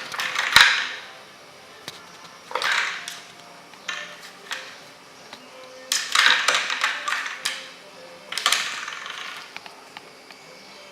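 A cat's mouse-trap toy, a toy mouse spinning inside it, rattling and scraping in five short bursts with sharp clicks as the cat bats at it.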